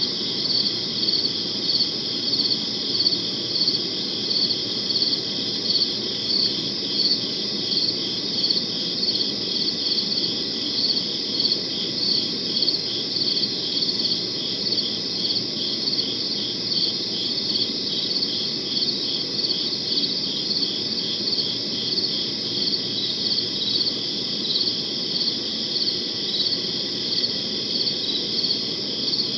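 Crickets chirping on and on in an even rhythm of about two chirps a second, over a faint low background hiss.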